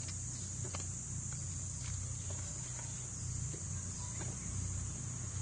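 Steady high-pitched chirring of insects, such as crickets, over a low rumble, with a few faint clicks.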